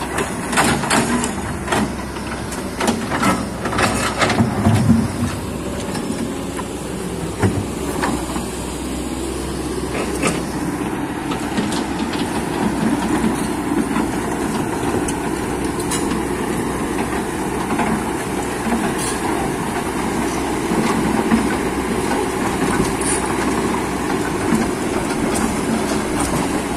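Kobelco hydraulic excavator's diesel engine running steadily under working load. In roughly the first eight seconds there are many sharp knocks and clatters of the bucket striking rock, and a few more later on.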